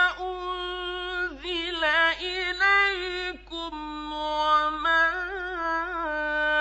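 Male reciter's voice in mujawwad (melodic) Quran recitation, stretching a long held vowel into ornamented melodic runs, with short dips in pitch about a second and a half and three and a half seconds in.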